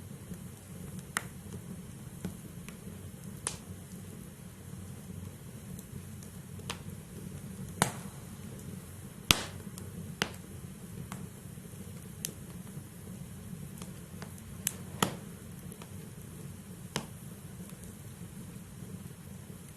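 Logs burning in a fireplace: about a dozen sharp, irregular crackles and pops over a low, steady rumble of the fire. The loudest pop comes about nine seconds in.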